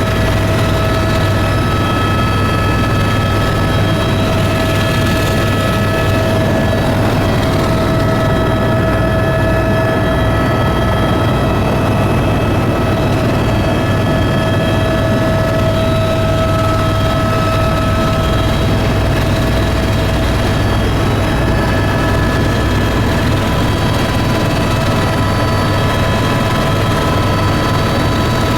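Aircraft engine drone, loud and unchanging, with several steady high-pitched tones riding over a deep hum.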